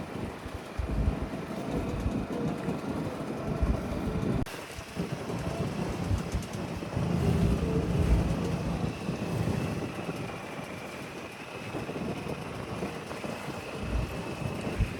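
Boat engine running steadily under heavy wind buffeting on the microphone, with an abrupt change in the sound about four and a half seconds in.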